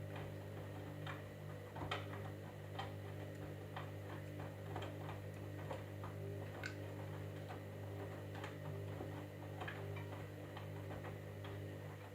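Candy washing machine running mid-cycle: a steady low hum with light, irregular ticks and clicks, about two or three a second.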